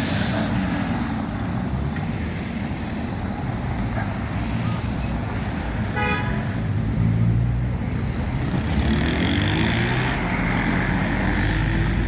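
Road vehicle engine and traffic rumble, with a short car horn toot about halfway through and an engine rising in pitch as it speeds up near the end.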